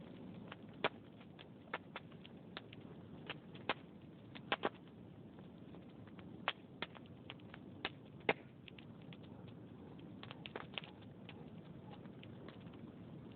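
Wood fire burning in a fireplace, crackling with irregular sharp pops over a low steady rumble of flames.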